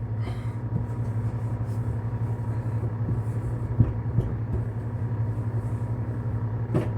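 Steady low hum of a running kitchen appliance, with faint thin tones above it, and a light knock about four seconds in.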